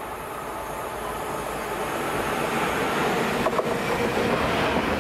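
Freight train approaching on the line, its wheel and rail noise growing louder over the first three seconds and then running steadily as it passes.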